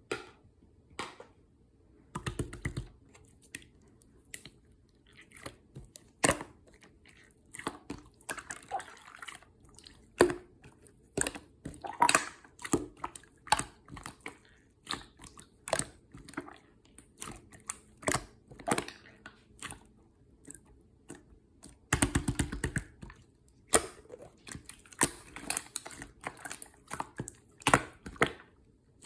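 Slime being squished and poked by hand, making irregular wet clicks and small air-bubble pops. There are two bursts of rapid crackling, about two seconds in and again near the end.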